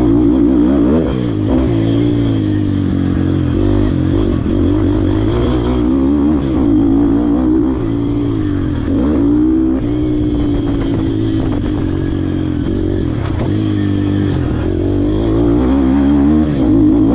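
YCF Bigy 150 MX pit bike's four-stroke single-cylinder engine being ridden hard. Its pitch climbs and drops again and again as the throttle is opened and closed and it shifts through the gears.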